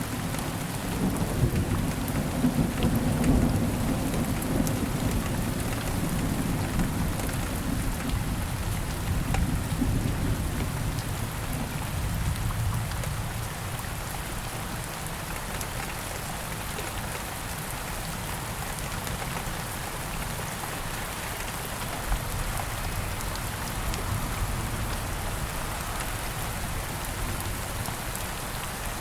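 Steady rain falling in woodland, with a low rumble of thunder through the first half that fades away, leaving just the rain.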